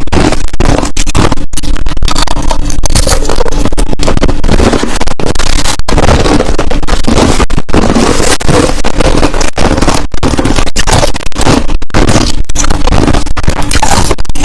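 Crushed ice, clear and powdery, being chewed close to the microphone: a loud, continuous, irregular crunching and grinding between the teeth.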